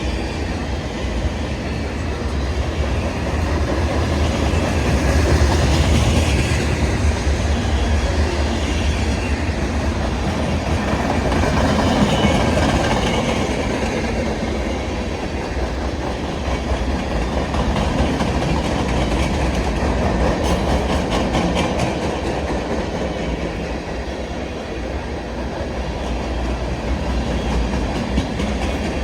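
Long freight train's cars rolling past with a steady rumble and the clickety-clack of wheels over rail joints, swelling louder twice in the first half.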